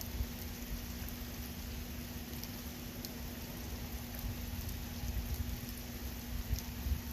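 Steady rain from a thunderstorm that is dying down, with scattered drops ticking, over the steady low hum of an oscillating fan.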